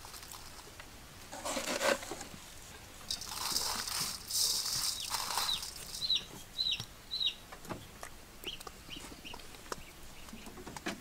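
A short clatter, then a burst of rustling, then a bird chirping about five times in quick succession, with a few fainter chirps a second or so later.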